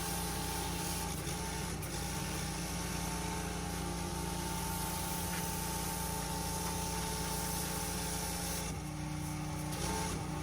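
Petrol pressure washer engine running steadily under the hiss of the high-pressure water spray. Near the end the spray hiss stops for about a second while the engine keeps running.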